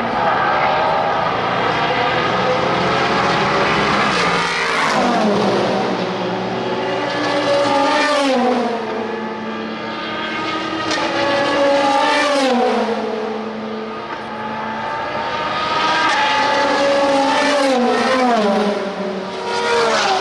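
Sports-prototype and GT race car engines running hard past the track, one car after another. Each drops in pitch in a series of steps as it downshifts, with sharp crackles between the shifts.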